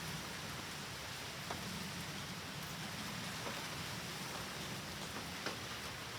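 Steady typhoon rain falling: an even hiss with scattered drops ticking now and then.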